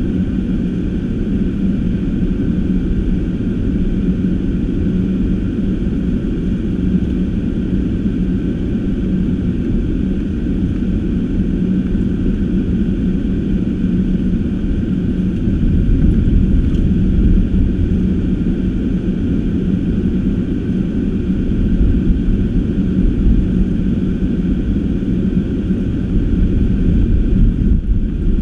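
Car driving: a steady low rumble of engine and tyre noise with a constant low hum, growing slightly louder about halfway through.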